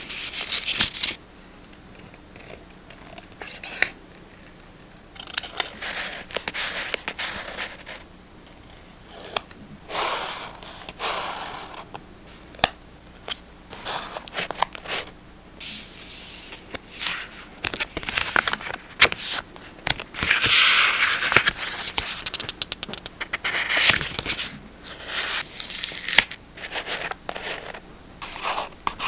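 Close-up paper-crafting sounds: scissors snipping paper, and paper being handled and rustled, with many short clicks and taps scattered throughout.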